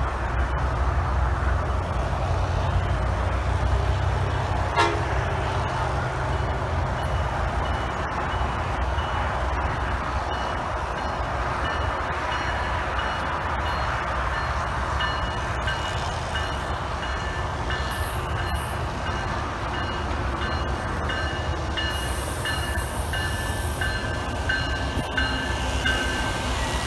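Tri-Rail push-pull commuter train approaching and pulling into the station, cab car leading: a continuous low rumble. About halfway through, thin high-pitched ringing tones come in over it and grow stronger as the train draws up alongside the platform.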